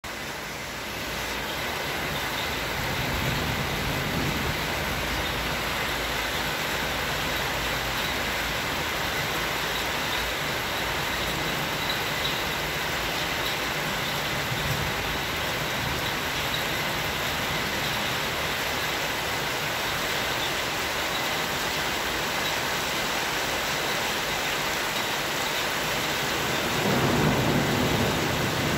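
Steady rain falling, an even hiss with no let-up. A low rumble swells briefly near the end.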